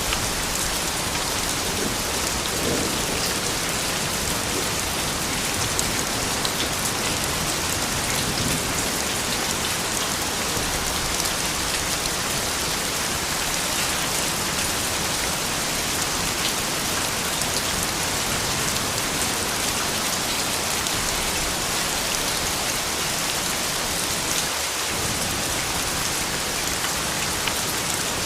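Steady rain falling: an even hiss with the patter of individual drops.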